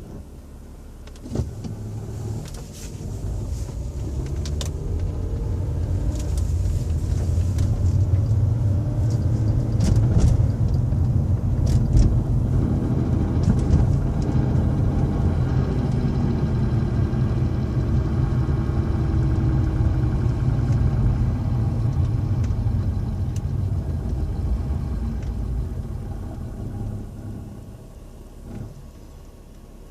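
Grinding noise from a 2007 Volvo S80 3.2. It swells over several seconds, stays loud for a long stretch and then dies away near the end. The owner places it behind the glovebox on the lower passenger side. It happens in park, when coasting and in reverse, but not in drive or when accelerating, so he has ruled out the brakes.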